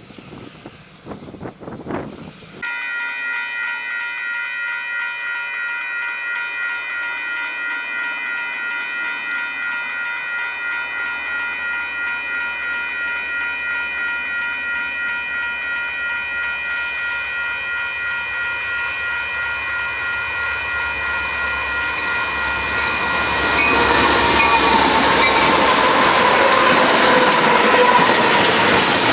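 A grade-crossing warning bell rings steadily while the deep rumble of approaching Union Pacific locomotives grows. About three-quarters of the way in the bell stops, and the container train passes close by with loud rolling wheel-on-rail noise.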